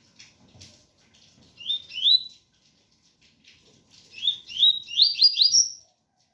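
Double-collared seedeater (coleiro) singing its 'tui-tui' song: two rising whistled notes, then, about two seconds later, a quick run of five rising notes, the last one higher.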